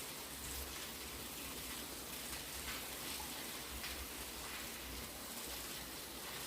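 Steady, fairly heavy rain falling, with scattered louder drops ticking through it.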